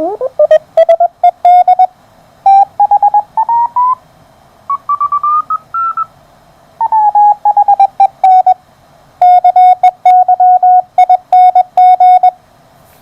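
Morse code (CW) signals received on a homebuilt WBR regenerative receiver on the 30 m amateur band and played through an MFJ-281 speaker that resonates around 650–700 Hz. The keyed beeps sit near 700 Hz, and in several passages the pitch glides up or down.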